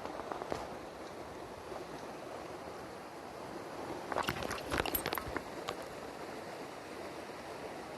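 Mountain stream running steadily, with a handful of sharp clicks about four to five seconds in.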